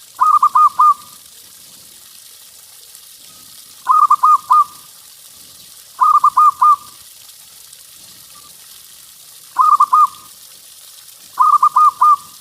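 Zebra dove (perkutut) cooing: five short phrases of quick, rolling coos, each under a second long, repeated every two to three seconds.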